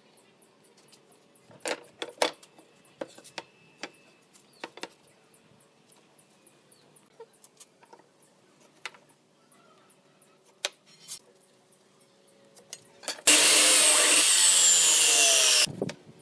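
Scattered light knocks and taps of workshop handling, then a loud power tool runs for about two and a half seconds near the end and cuts off suddenly.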